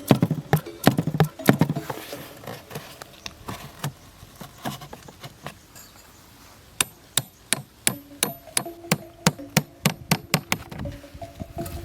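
Repeated sharp knocks or chops: a cluster in the first couple of seconds, a few scattered ones, then a quick regular run of about four strikes a second lasting several seconds.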